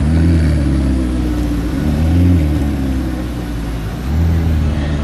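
Car engines rumbling and being revved as cars pull away slowly, with the engine note rising and falling three times.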